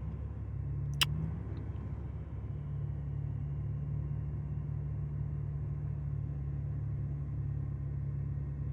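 Truck engine running steadily under load, a low hum with a held pitch, as it strains to pull a truck stuck on a curb that is not budging. A single sharp click about a second in.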